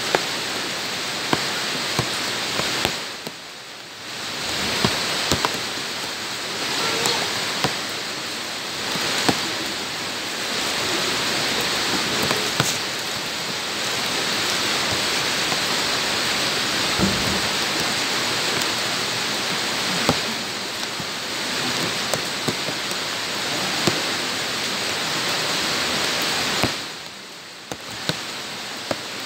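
Rain falling on wet ground and puddles: a steady hiss with frequent sharp splats of drops landing close by. The sound briefly dips about three seconds in and again near the end.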